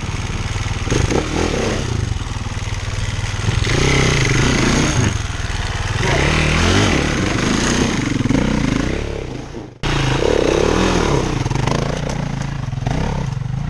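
Dirt bike engine revving up and down under load on a rocky off-road climb. The sound cuts out abruptly about ten seconds in, then the engine is heard again.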